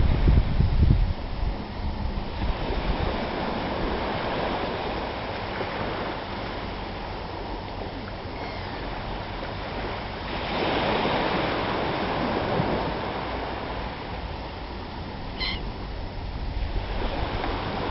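Sea surf washing on a beach, a steady wash of noise that swells for a few seconds about ten seconds in, with wind buffeting the microphone at the start. A brief high-pitched call sounds about fifteen seconds in.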